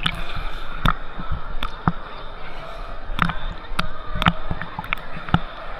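Wave pool ambience: a steady wash of water and crowd noise, broken by about eight irregular sharp knocks.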